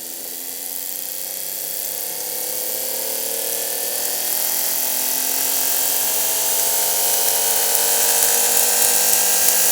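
Toyota 2JZ-GE inline-six engine heard through a knock sensor bolted to the block beside cylinder six. It is a dense mechanical sound made of many tones that slowly fall in pitch while growing gradually louder, as the engine's speed drops.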